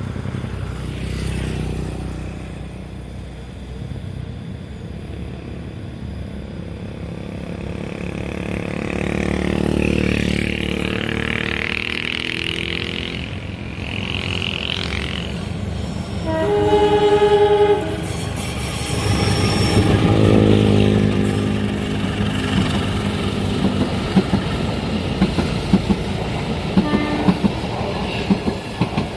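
A train approaching with its locomotive engine rumbling, sounding its horn once for about a second and a half around the middle. It then passes with a steady rhythmic clickety-clack of wagon wheels over the rail joints.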